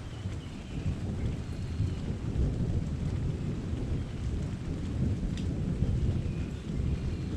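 Thunder rumbling low and long under steady rain, the rumble swelling about a second in and staying heavy.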